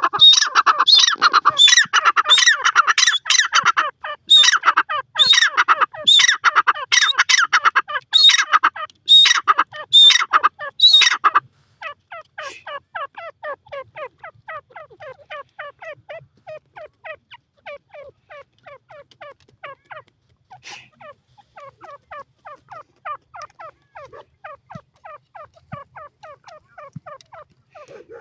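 Grey francolin (dakhni teetar) calling. Loud, harsh repeated calls come in several bouts for about eleven seconds, then cut abruptly to a quieter, fast run of short falling notes, about five a second.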